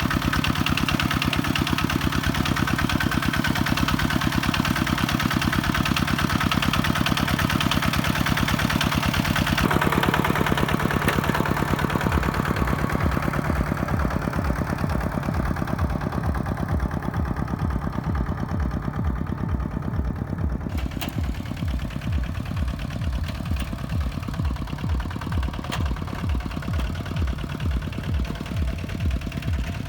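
Kubota tractor's diesel engine running steadily. About ten seconds in its sound shifts, and through the second half a slower, more distinct low chugging stands out.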